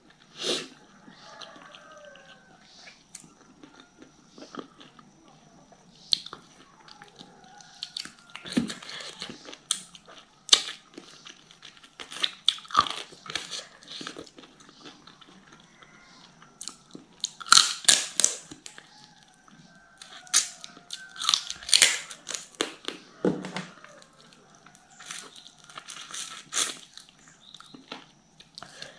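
Close-miked chewing and biting of boiled chicken eaten by hand: irregular wet mouth clicks and crunches, with two louder bursts of crunching in the second half.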